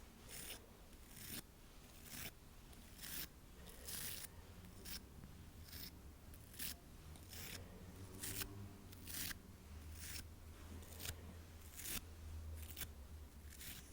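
Close-miked ASMR trigger sounds: a run of short, crisp swishing strokes, about one or two a second, over a faint low hum.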